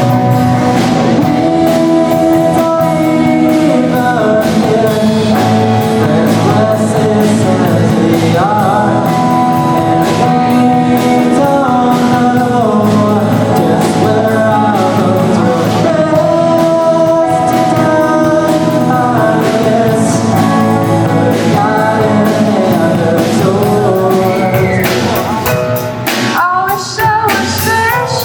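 A song with a singing voice over a rock band with guitar and drums; the music thins out briefly near the end.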